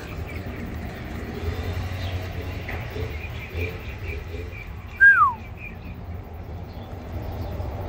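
Background bird calls: faint repeated high chirps, then one clear whistle sliding downward in pitch about five seconds in, over a low steady hum.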